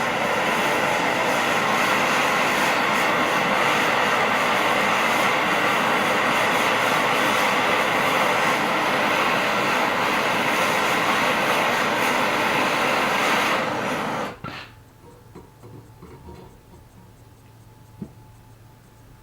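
A torch flame burns with a steady roaring hiss, heating the steel spike for bending, and is shut off suddenly about three-quarters of the way through; a faint click follows near the end.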